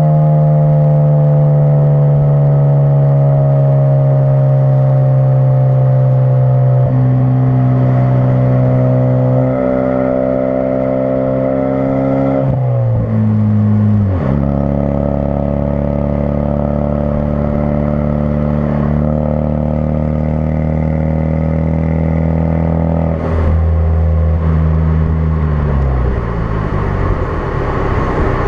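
2016 Ford Focus RS's turbocharged 2.3-litre four-cylinder running through a custom-fabricated exhaust, with a steady drone at cruise. The engine note sags slowly, then drops in pitch in steps about halfway through and again near the end, as at upshifts.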